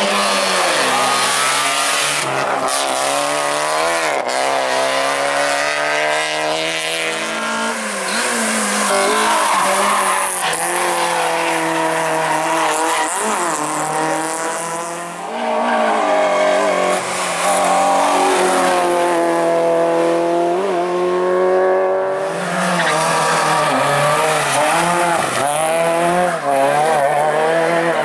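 Hillclimb competition car engines at full throttle, the pitch climbing and dropping again and again through gear changes and lifts off the throttle, with tyres squealing.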